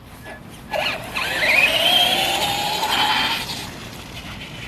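Electric motor and drivetrain of a Traxxas RC car whining as it speeds up, the pitch rising quickly and then holding for a couple of seconds before the car backs off.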